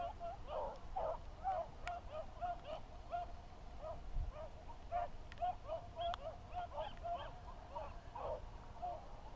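Pack of beagles baying as they run a rabbit, a steady string of short overlapping calls two or three a second: the dogs are on the rabbit's scent trail.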